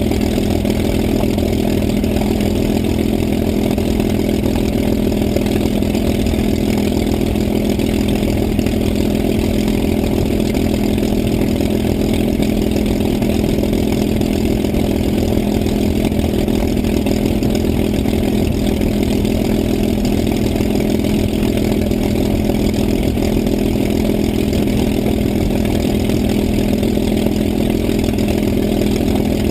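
Engine running at a steady speed, a constant unchanging drone with no rise or fall.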